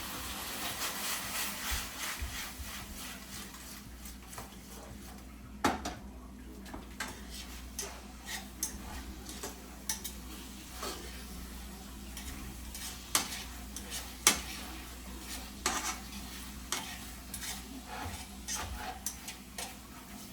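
Chicken pieces sizzling as they fry in a hot pot, while a utensil stirs them and clinks and knocks against the pot now and then. The hiss is stronger in the first few seconds, then settles lower.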